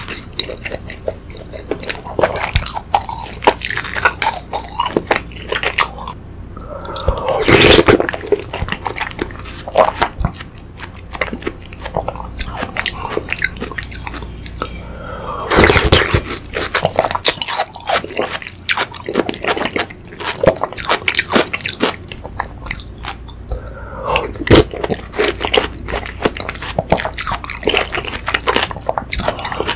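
Close-up eating sounds: a person biting and chewing sausage, rice cake and watermelon pieces from a watermelon fruit punch, in a rapid run of mouth clicks. There are three louder swells, about 8, 16 and 24 seconds in.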